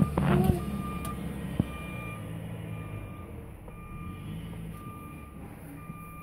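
Snow-plowing vehicle backing up: its reverse alarm beeps steadily, about once a second, over the low running of its engine.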